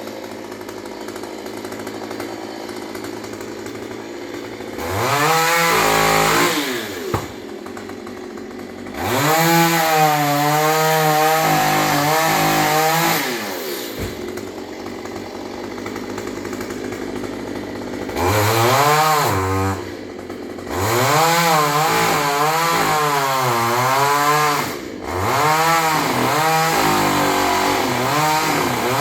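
Two-stroke chainsaw idling and opened up to full throttle in five runs. Its pitch rises as it revs and dips and wavers as the chain bites into tree branches.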